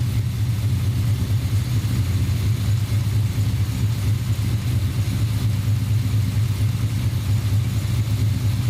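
Small-block Chevy V8 with Holley Sniper EFI running steadily, with a slight tick in its note that the owner takes for a knock from a bad rod bearing.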